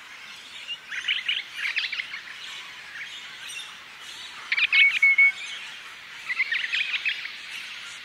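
Birds chirping in three short bursts of high, rapid notes. The loudest burst comes just past the middle and ends in a brief held whistle.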